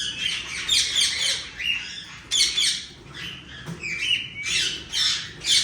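Aviary parrots calling over and over with harsh squawks and chirps, several calls a second in quick runs.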